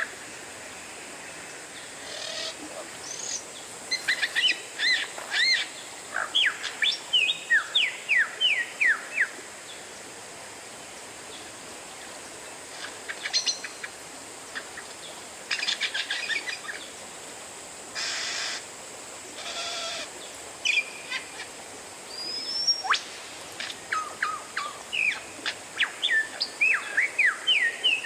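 Oriental magpie-robin (kacer) song: phrases of quick, rising and falling whistled notes, broken by pauses, with a few harsh, rasping notes in the middle, over a steady background hiss.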